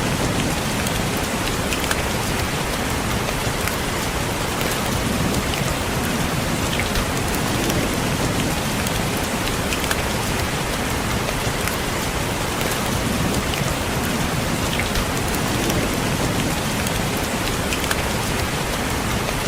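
Steady rain, with many small individual raindrops tapping on a window pane over an even hiss.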